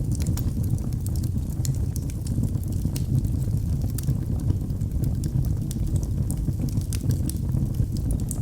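Wood fire burning in a fireplace, crackling with frequent small, sharp pops at irregular intervals over a steady low rumble of the flames.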